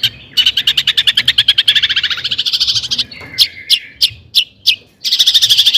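Long-tailed shrike singing: a fast rattling run of sharp notes, about ten a second, for some three seconds, then a few separate sharp notes, then another fast run near the end.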